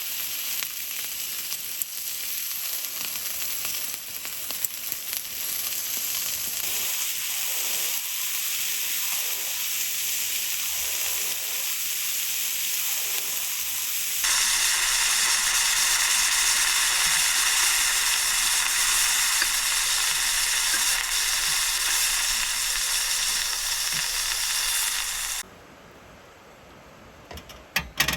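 Food sizzling as it fries in a pan: a steady hiss that jumps louder about halfway through and cuts off shortly before the end, followed by a few light clicks.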